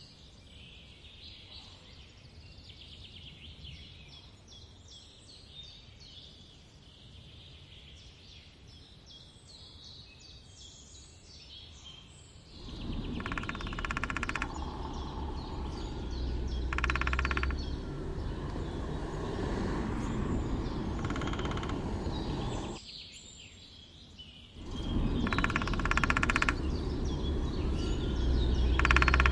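Small birds chirp against a quiet background. About halfway through, a steady low rumble comes in, and a woodpecker drums in short, rapid bursts every few seconds.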